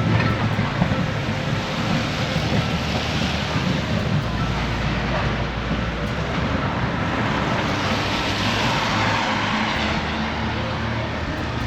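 Manx Electric Railway tram running along the track: a steady rumble of wheels and running gear with a low hum.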